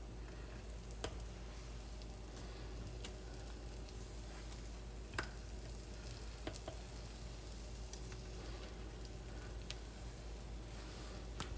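Butter and flour sizzling faintly in a hot skillet: a roux being started for country gravy. A few light clicks come at irregular moments.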